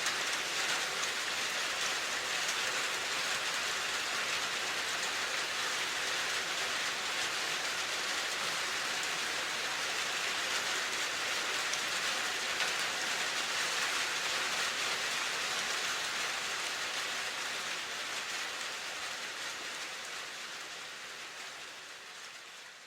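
Steady rain, an even hiss of falling drops, fading out gradually over the last several seconds.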